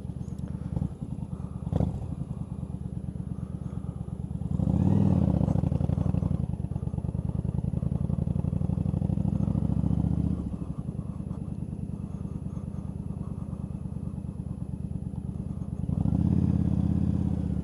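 A 1999 Yamaha V-Star 1100 Custom's air-cooled V-twin engine and exhaust running under way. It grows louder about four and a half seconds in, stays up until about ten seconds, then settles, and rises again near the end as the throttle is opened.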